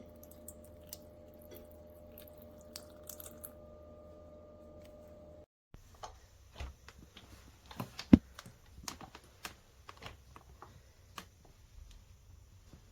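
A faint steady hum with a few light clicks, then a run of sharp clicks and knocks of hard objects being handled, with one much louder knock about eight seconds in.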